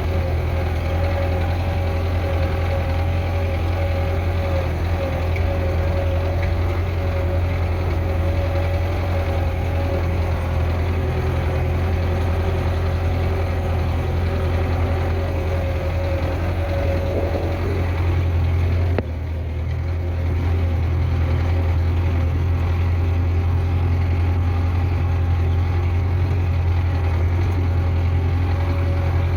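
Tractor engine running steadily, a continuous low drone with a steady whining tone above it. The level dips briefly about two-thirds of the way through, then carries on.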